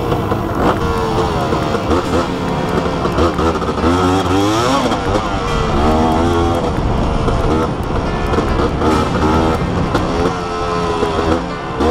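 Motorcycle engine running on the move, its pitch rising and falling repeatedly as the throttle is opened and eased, over background music.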